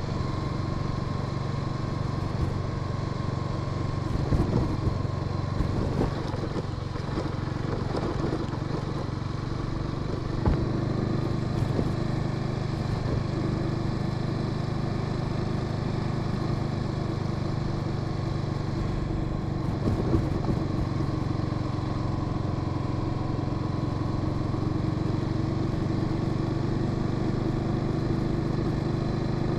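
Honda Sahara 300 single-cylinder motorcycle engine running at a steady cruise, heard from the rider's position, with a few short clatters along the way.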